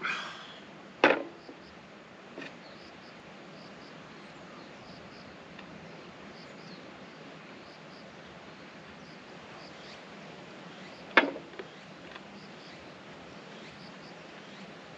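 Two sharp knocks, about ten seconds apart, each followed by one or two lighter taps, over a steady hiss with faint, high repeated chirps.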